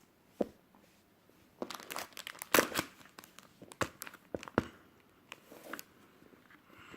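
Plastic packaging crinkling and crackling as it is handled, loudest in a burst between about one and a half and three seconds in, with scattered sharp clicks and rustles after.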